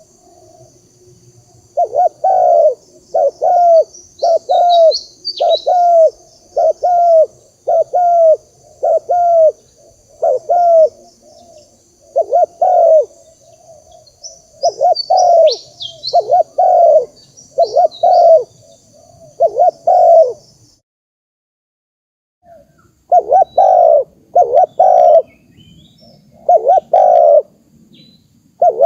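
Spotted dove cooing: a long series of short, loud coos a little under a second apart. The series breaks off for about two seconds past the middle and then resumes. A small bird chirps faintly twice in the background.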